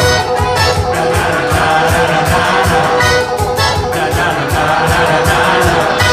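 Live band playing an upbeat song with singing, over a fast, steady drum beat of about four strokes a second.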